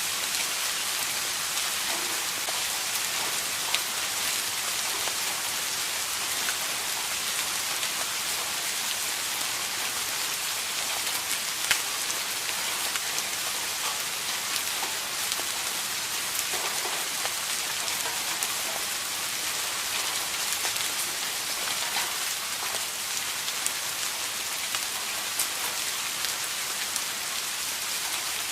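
Steady rain falling on a surface, an even high hiss with scattered individual drops ticking, a few standing out louder.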